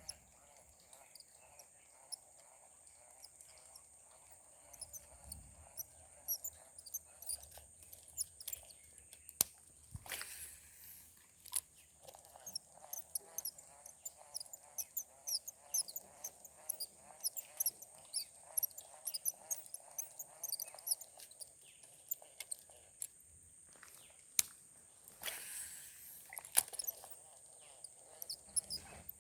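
Insects droning steadily, with many short high chirps over the top and a lower chorus of calls that comes and goes for long stretches. A few sharp clicks or knocks stand out.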